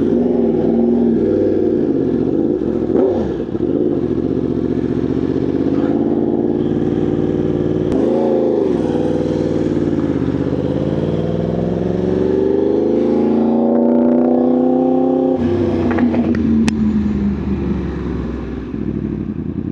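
2025 Yamaha R1's crossplane inline-four running through an SC Project titanium exhaust while riding. The engine note holds steady, dips briefly about eight seconds in, then climbs in pitch under acceleration for several seconds, drops suddenly about fifteen seconds in, and sinks lower as the bike slows.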